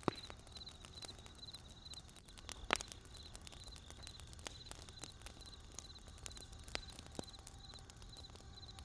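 Wood campfire burning, with irregular sharp crackles and pops over a low steady rumble; one loud pop comes about a third of the way in. A high chirping repeats in short groups in the background.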